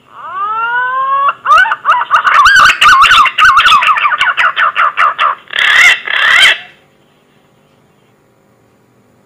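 Green pigeon (punai) call: a whistled note sliding upward for about a second, then a rapid run of wavering, warbling whistles. It closes with two louder phrases around six seconds in, then stops.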